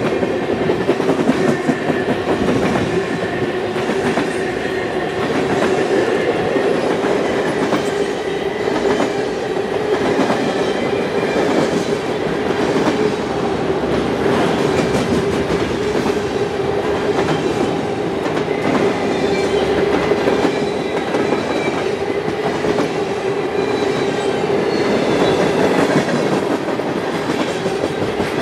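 Canadian National freight train's cars rolling steadily past, the wheels clicking over the rail with a constant mid-pitched hum underneath.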